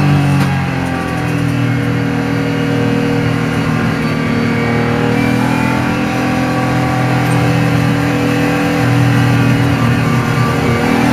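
BMW E30 325i's M50B25 straight-six engine heard from inside the cabin, pulling under load on track. Its note dips about a second in, holds steady, then rises again near the end.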